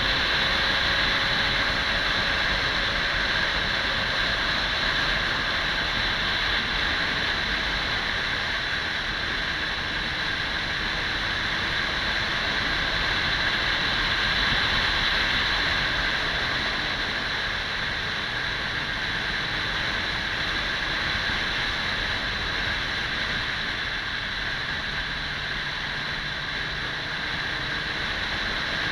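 Kawasaki 400 cc motorcycle on the move: steady wind and road rush, with the engine running faintly underneath.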